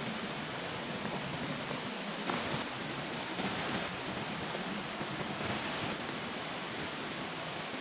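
Steady rushing noise with a few slight swells.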